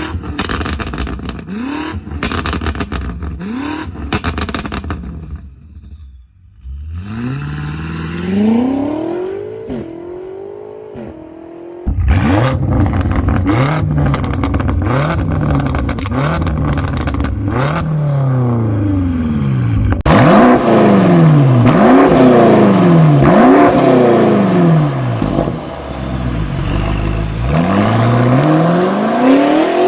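BMW M performance car engines and exhausts revved repeatedly in short blips, each rev rising and falling in pitch. On some stretches the revs come with rapid crackling pops from the exhaust. The sound changes abruptly a few times as different cars' clips are cut together.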